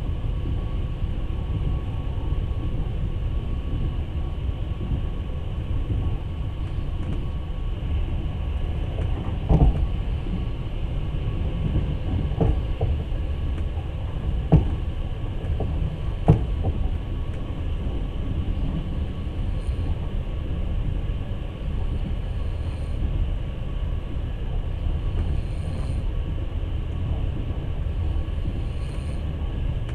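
Passenger train running, heard from inside the carriage: a steady low rumble of the wheels on the rails. Four sharp knocks come through it in the middle stretch.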